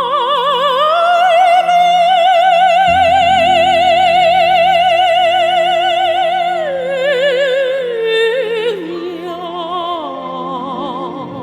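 Mezzo-soprano singing a wordless vowel line with wide vibrato. She rises to a long high note held for about six seconds, then descends in shorter stepped phrases over sustained instrumental accompaniment, which gains a deep bass note about three seconds in.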